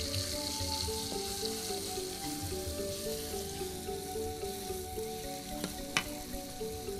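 Ground spice paste with galangal and kaffir lime leaves sizzling in hot oil in a steel wok while a metal spatula stirs it. There is one sharp clink about six seconds in. Background music with a simple melody runs under it.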